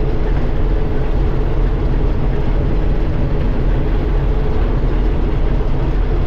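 Old John Deere 4400 combine running steadily, a constant heavy machine drone with a steady hum that does not change.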